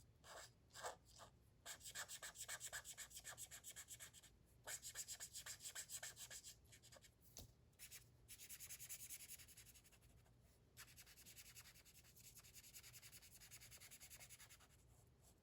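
Faint, rapid back-and-forth strokes of a colouring tool shading on paper, in several quick runs broken by short pauses.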